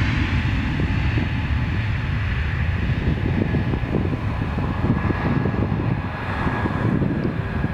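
Jet airliner's engines at takeoff power, a deep rumble that slowly fades as the aircraft climbs away.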